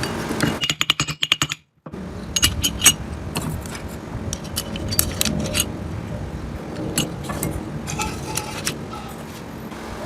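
Light metallic clinks and jingles, scattered and irregular, over a steady low rumble. Near the start a rapid run of ticks cuts off abruptly, with a moment of silence after it.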